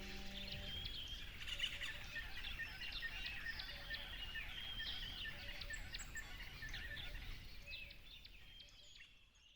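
Many songbirds chirping and trilling over a low outdoor rumble. A held musical tone dies away in the first second, and the whole mix fades out near the end.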